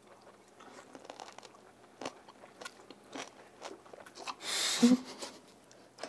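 Close-up mouth sounds of someone eating octopus: wet biting and chewing clicks, with one louder slurp a little past halfway as a tentacle is sucked in.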